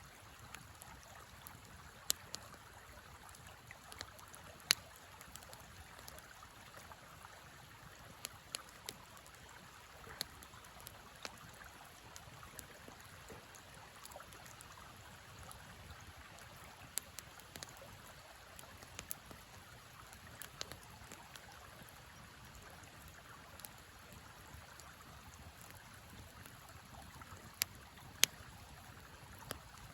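Wood fire crackling with scattered sharp pops, a few of them loud, over the steady rush of a flowing river.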